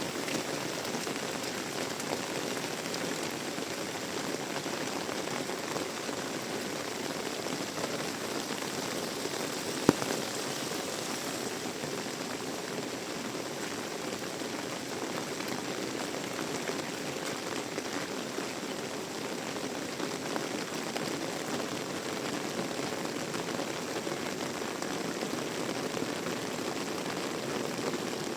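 Heavy rain falling steadily, an even hiss of drops on surfaces. There is a single sharp click about ten seconds in.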